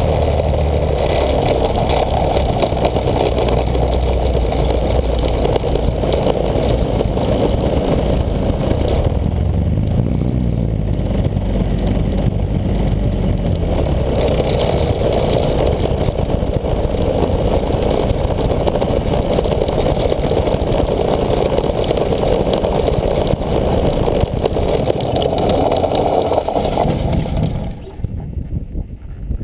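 Desert Aircraft DA-100 twin-cylinder two-stroke gas engine of an RC airplane running loud, heard close on an onboard camera. Its sound eases back about nine seconds in, rises again a few seconds later, and the engine cuts out shortly before the end.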